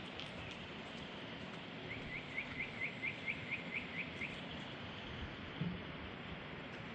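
A bird calling a rapid series of about ten short, rising chirps, roughly four or five a second, over a steady outdoor hiss.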